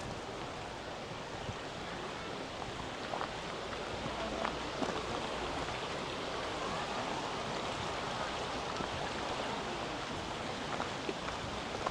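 Steady rushing of flowing stream water, with a few faint scattered clicks.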